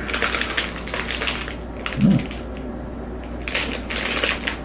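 Close-up chewing of a crunchy cornflake and peanut butter chewy bar: crackly crunching in two spells, with a short hum from the mouth about two seconds in.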